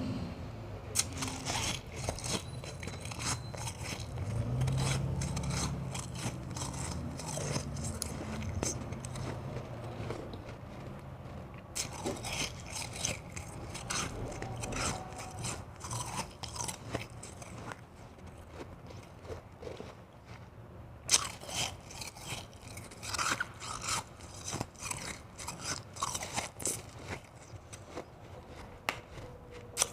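White ice being bitten and chewed close to the microphone: crisp crunching in runs, with two short lulls.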